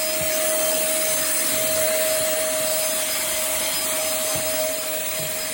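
pemacom cordless handheld vacuum cleaner running on carpet: a steady motor whine over the rush of suction.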